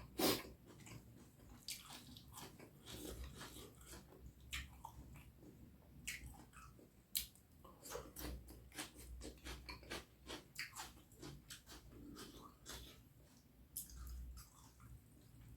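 Close-miked chewing and wet mouth smacks of someone eating curry with rice: soft, irregular short clicks, several a second, with an occasional louder smack.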